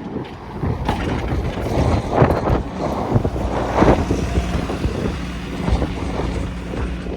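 Bus engine running close by as the bus moves past, its rumble building over the first couple of seconds, with wind noise on the microphone.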